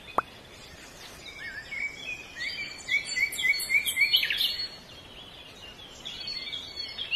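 Birds chirping over a steady background hiss: a quick run of short, repeated high notes, about four a second, through the middle, with a few more calls near the end. A single sharp click sounds just after the start.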